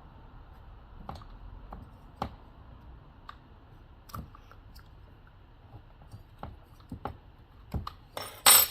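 Small metal clicks and taps, about one a second, as chainsaw parts and hand tools are handled during engine disassembly, then a louder scraping rasp near the end.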